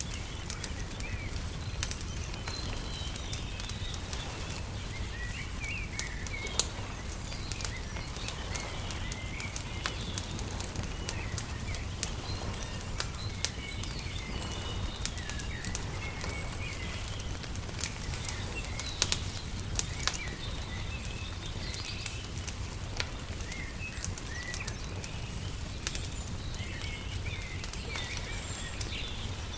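A wood fire crackling with frequent sharp pops over a steady low rumble, while small birds chirp throughout.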